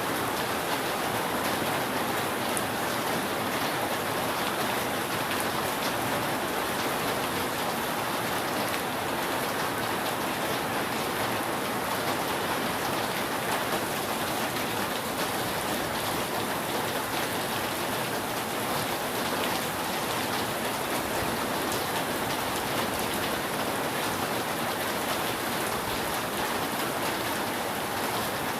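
Steady rain falling on a roof, an even, unbroken patter of drops.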